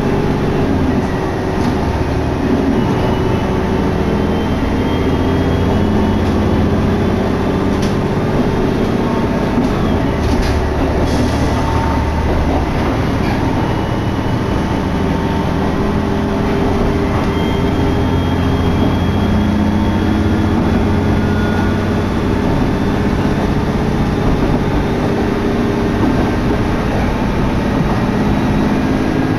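Diesel railcar running between stations, heard from inside the carriage: a steady engine drone under the rumble of wheels on the rails, with a few short knocks about ten seconds in.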